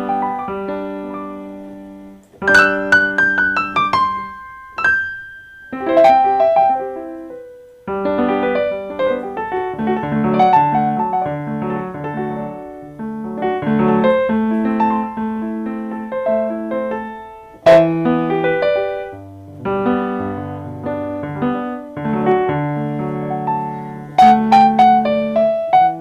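Roland GW-8 arranger keyboard played in a piano-like tone: a melody over chords, in several phrases with short breaks in the first eight seconds, then continuous playing.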